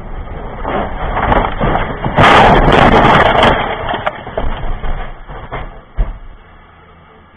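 A loud crashing noise, like a road-vehicle collision: a rising rush that peaks for just over a second, then tails off with scattered knocks and one sharp knock near the end.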